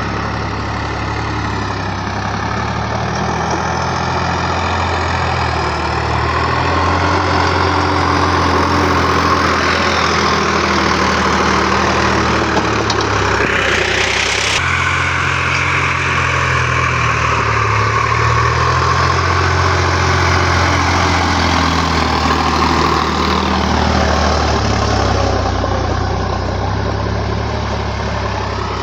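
Sonalika tractor's diesel engine running steadily, with a high rising sound about halfway through that cuts off suddenly.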